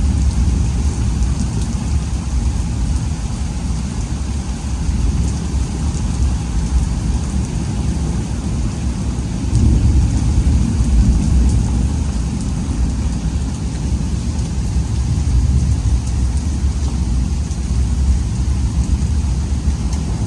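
Heavy rain falling during a severe thunderstorm, over a steady low rumble that swells about ten seconds in.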